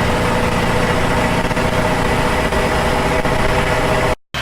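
Riding lawn mower tractor's small engine running steadily, then cut off suddenly near the end.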